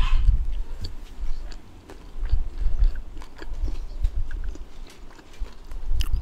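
Close-miked chewing of a rice and fried pita-chip bowl, with scattered small clicks of mouth and food. Irregular low rumbling gusts of wind buffet the microphone.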